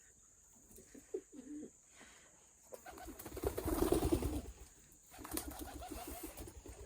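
A pigeon or dove cooing: a low rolling coo about three seconds in, then a run of quick repeated low notes.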